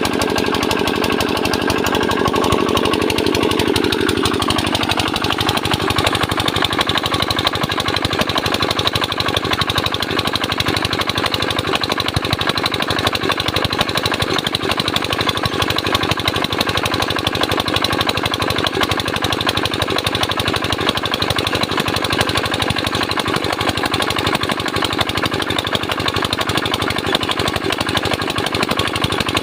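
Comet 85 mm diesel engine running steadily, with a rapid, even knocking beat. A higher drone on top of it fades away in the first five seconds.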